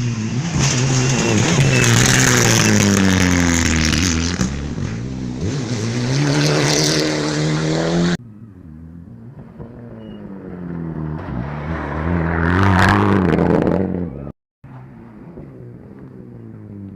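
Rally cars at full throttle on a special stage. The first passes close by, its revs climbing and dropping repeatedly through gear changes, until an abrupt cut about eight seconds in. A second car approaches and passes loudly, then after a brief gap a quieter car is heard further off.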